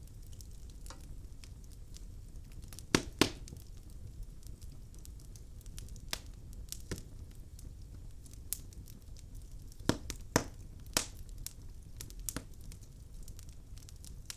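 Logs burning in a fireplace, crackling with scattered sharp pops over a low steady rumble. A pair of loud pops comes about three seconds in and a cluster of them about ten seconds in.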